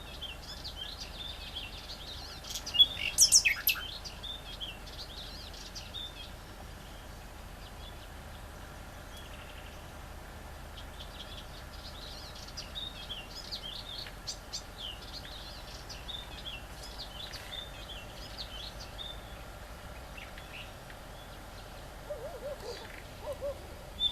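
Great reed warbler singing its harsh, chattering song in two long bouts, the first with a loud sharp note about three seconds in and the second starting about twelve seconds in. A few lower notes come near the end.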